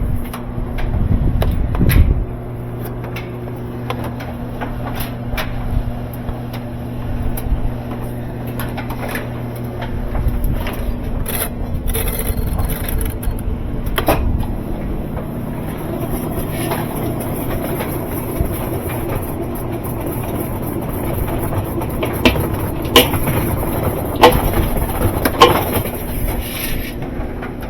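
Top-loading washing machine running: a steady motor hum with rubbing and scraping, turning rougher after about ten seconds, with a sharp knock midway and several more near the end. These are the odd running noises of a machine that won't spin, which the repairer takes for a stripped spin tube.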